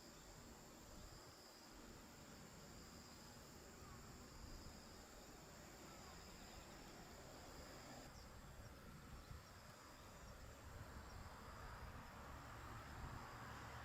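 Faint high insect song, a steady thin trill with a slower pulsing chirp beneath it that stops about eight seconds in. A low rumble and hiss grow near the end.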